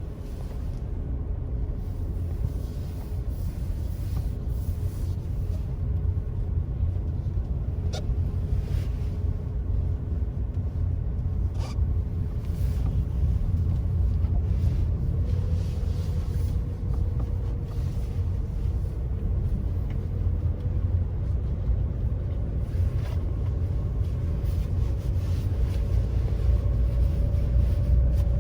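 Car driving on a country road: a steady low rumble of tyres and engine that grows louder over the first few seconds, with a faint engine tone that climbs slightly about halfway through. Two short clicks come about eight and twelve seconds in.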